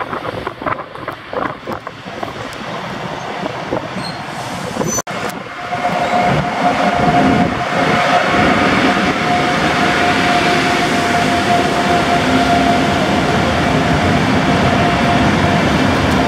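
EP05 electric locomotive hauling an intercity passenger train past the platform, then its coaches rolling by with a steady rumble and, from about six seconds in, a steady high whine.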